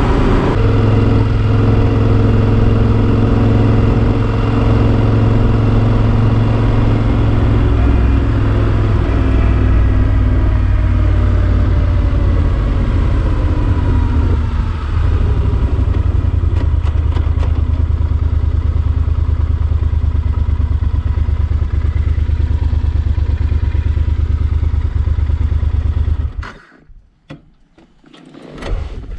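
Yamaha Super Ténéré XT1200's parallel-twin engine running steadily under way, its pitch falling partway through. Near the end the engine sound drops away suddenly.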